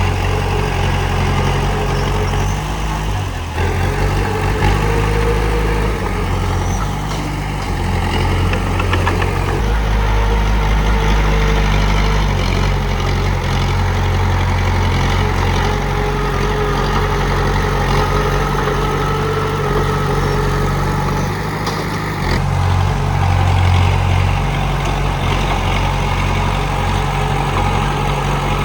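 Komatsu D31P crawler bulldozer's diesel engine running, its low note shifting a few times as the load changes.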